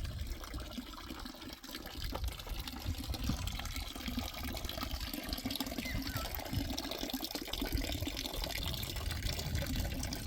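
Steady running water, an even rushing flow that carries on without a break.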